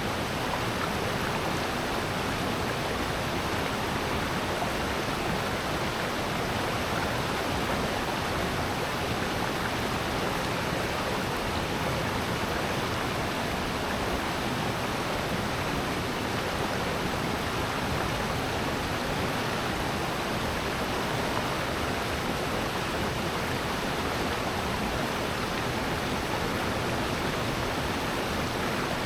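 Rushing water of a valley stream: a steady, unbroken rush that holds even throughout.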